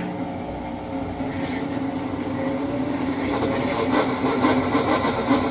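Amana top-load washer draining and spinning up, a steady machine hum with a slowly rising whine and a ticking rattle from about three seconds in. It is the screeching binding noise of a drive belt that needs conditioning.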